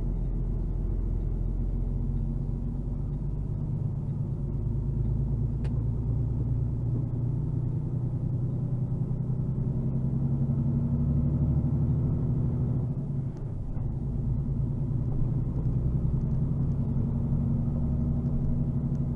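Vehicle engine and road noise heard from inside the cab while driving slowly: a steady low rumble.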